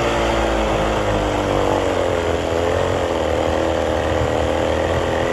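Boat motor running just after a cold start in about 20-degree weather, its pitch wavering slightly as it settles.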